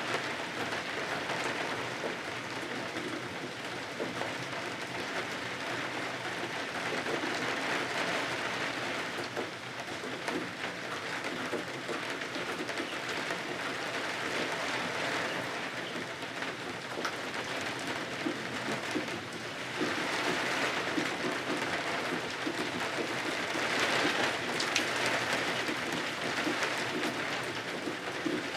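Steady rain, its hiss swelling and easing every few seconds.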